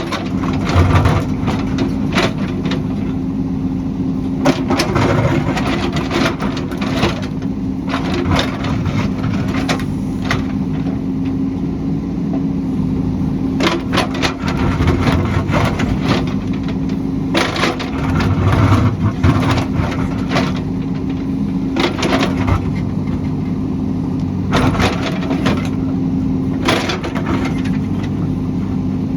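Heavy construction machine's engine running steadily, with irregular sharp knocks and cracks every few seconds, like metal and rock striking as the machine works.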